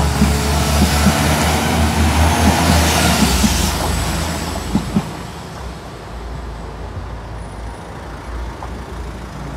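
A West Midlands Railway diesel multiple unit passing close by: a low engine drone and rumble with sharp clicks of wheels over the rail joints, fading away about five seconds in as the train clears the crossing.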